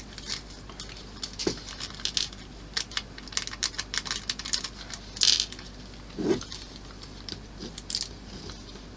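Small, irregular clicks and taps of tiny screws and hard plastic model parts being handled and fitted, with a few louder knocks about one and a half, five and six seconds in.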